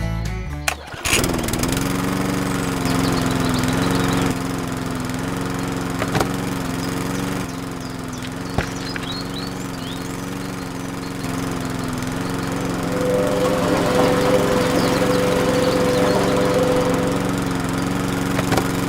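A small engine starting up about a second in and then running steadily, with an even, unchanging pitch.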